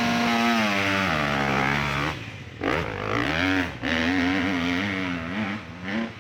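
Hill-climb motorcycle engine running hard, its pitch dropping after about a second, cutting out briefly twice near the middle, then revving on with a wavering pitch.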